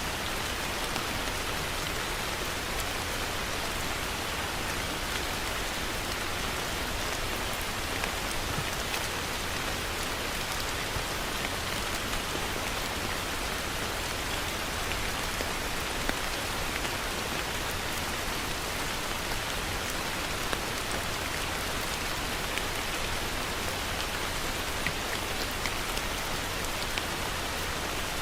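Heavy rain falling steadily, a continuous even hiss with scattered sharper drop ticks.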